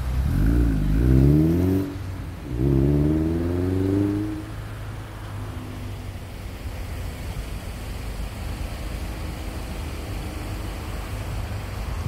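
Lotus Elise S1's four-cylinder engine accelerating away, its revs climbing, dropping briefly at a gear change about two seconds in, then climbing again in the next gear. The engine fades into the distance, leaving a steady low rumble.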